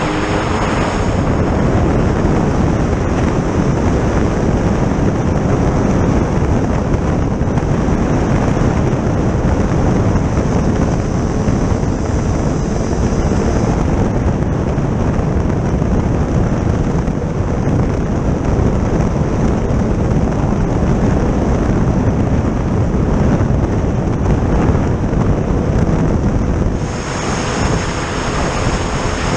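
Heavy wind buffeting the microphone over a vehicle running at a steady cruising speed across the ice.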